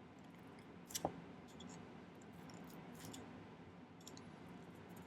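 Faint scattered clicks of metal hand tools against sterling silver wire as the ring's ends are curled, with one sharper tap about a second in.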